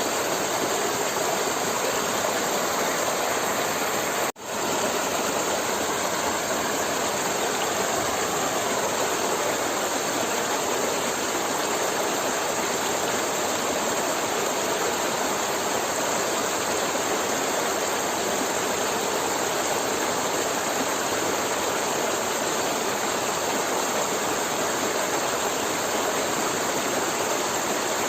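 Forest river flowing, a steady rushing of water that cuts out for an instant about four seconds in.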